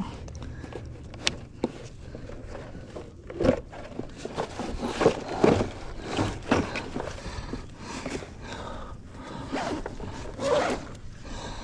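Irregular rustling and scraping handling noises, with a few short sharp knocks.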